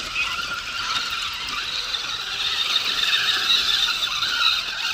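Small electric motors and geartrains of radio-controlled crawler trucks whining steadily as they climb a trail.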